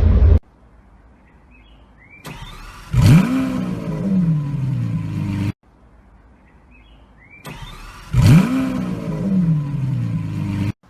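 Supercar engine starting: a short cranking, then the engine catches with a sharp flare of revs that falls back, gives a second blip and settles, before cutting off abruptly. The same start-up plays twice.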